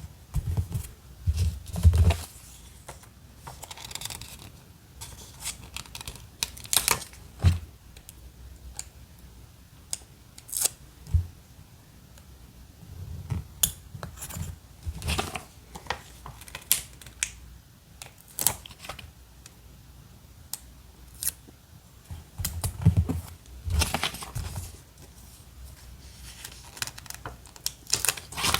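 Paper-crafting handling sounds from diary decorating: scattered sharp clicks and taps with short papery rustles and a few soft thuds on the desk, coming in irregular clusters.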